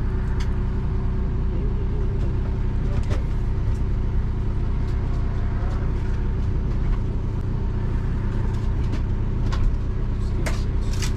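A steady mechanical drone with constant humming tones, the running equipment of a food truck, with scattered sharp clicks and knocks, several close together near the end.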